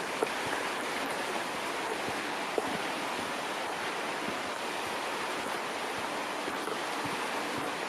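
Steady rushing of a stream or creek, with faint splashes and a few small ticks, one about a quarter second in and one about two and a half seconds in.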